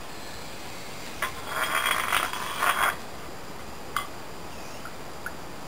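Small objects handled close to the microphone: a click, then about a second and a half of rustling and scraping, and a sharp clink about four seconds in, like a glass or dish being set down.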